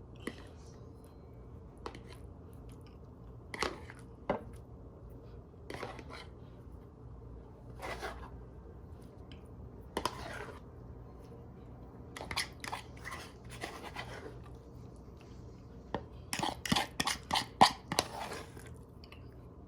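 Scattered short scrapes and taps of a utensil against a ricotta container and the baking dish while ricotta is dolloped in, with a quick run of clicks near the end.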